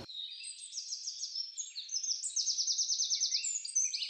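Small birds chirping and trilling high up, overlapping calls with a fast run of repeated notes about two seconds in.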